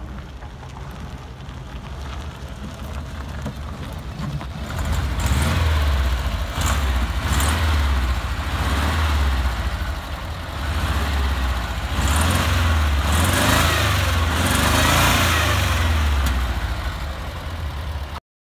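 ZAZ Zaporozhets' rear-mounted, air-cooled V4 engine running as the car drives, growing louder about four and a half seconds in and rising and falling a few times with a rush of road and wind noise; the owners say the engine lacks pull. The sound cuts off abruptly near the end.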